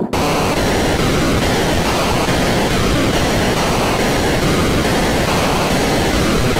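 Loud, steady static-like hiss filling every pitch. It cuts in suddenly in place of a beat and has a faint wavering tone pattern repeating under it, a noise layer in an electronic fan-made band track.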